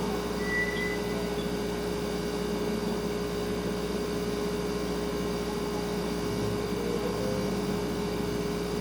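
Refrigerator humming steadily, with its compressor running and a constant low tone over a soft hiss. A brief faint high chirp comes about half a second in.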